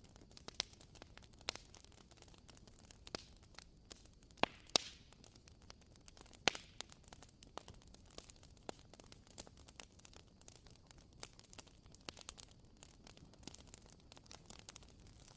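Wooden wick of a WoodWick candle crackling: small irregular pops over a faint hiss, a few louder ones near the middle.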